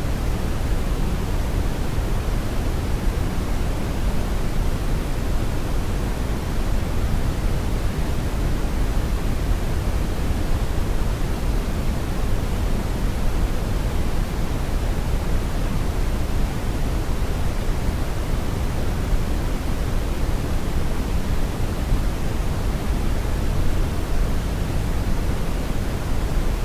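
Steady brown noise: an even, deep rumbling hiss, strongest in the bass and falling off toward the treble, with no changes.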